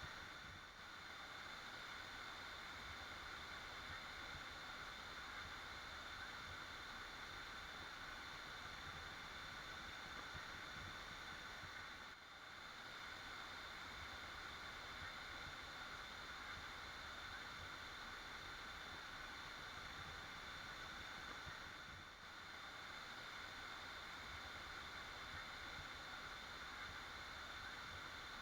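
Waterfall rushing as a steady, even hiss of falling water, dipping briefly three times, about ten seconds apart.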